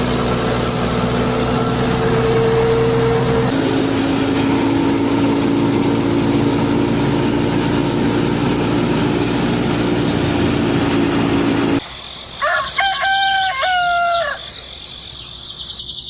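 Small motor of a DIY model tractor running with a steady hum that shifts slightly in pitch about a third of the way in, then cuts off abruptly. Right after, a rooster crows once for about two seconds.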